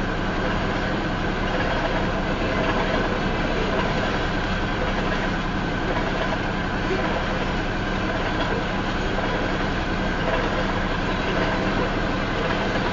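Freight train tank cars rolling past at about 35 mph, a steady rumble of steel wheels on the rails.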